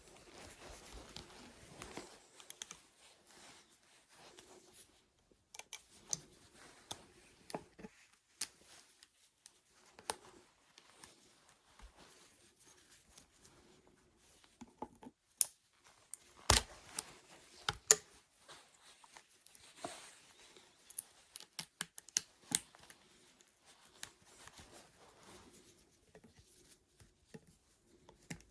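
Irregular small clicks, snips and scrapes of hand work on a workbench, with a few sharper knocks around the middle.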